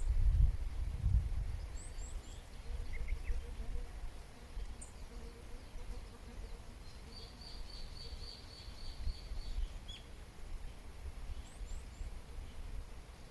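Wild birds calling: a rapid series of about ten high, even notes, about four a second, in the middle, with scattered short high chirps before and after. Under them runs a low rumble that swells near the start.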